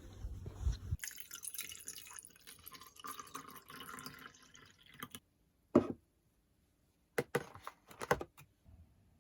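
Water running for a few seconds, then several separate sharp clicks or knocks.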